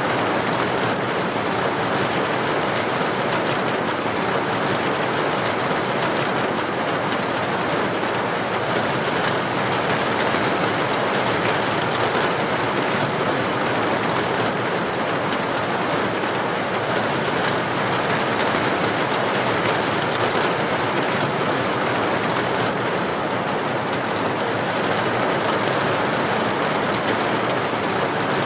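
Heavy rain falling steadily on a street, an even, unbroken hiss with no thunderclap.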